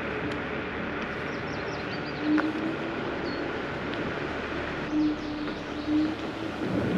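Steady ride noise from a dual-motor electric scooter rolling on a paved trail: tyre and wind rumble, with a short hum that swells and fades three times. Faint bird chirps come through in the middle.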